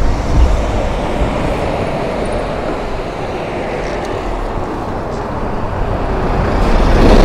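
Road traffic running past, with a vehicle approaching and getting louder near the end.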